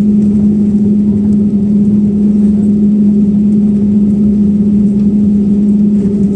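Steady low vehicle drone with a strong constant hum, holding even throughout with no change in pitch.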